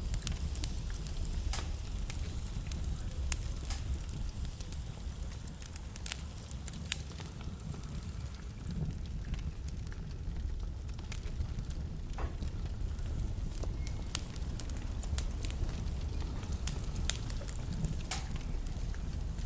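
Wood fire burning in a fireplace: a steady low rumble and hiss of the flames with scattered sharp crackles and pops from the burning logs, a few of them louder.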